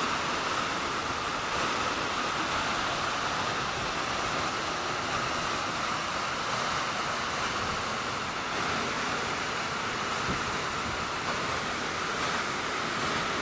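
Waterfall: a steady rush of falling water pouring into a pool.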